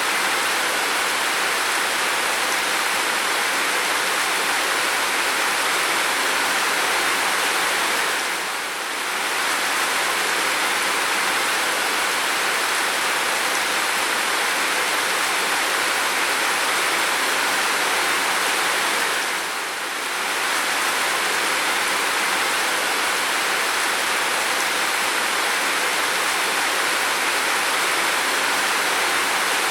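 Steady, heavy rainfall, an even hiss that dips briefly in level twice, about eleven seconds apart.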